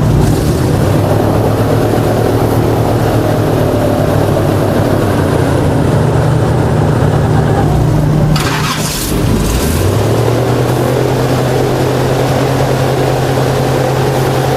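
Airboat engine and propeller running loud and steady. About eight seconds in, it eases off with a brief rushing hiss, then settles back to a steady, slightly lower pitch.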